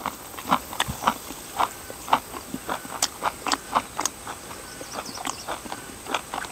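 A run of light, irregular clicks and taps, about three a second.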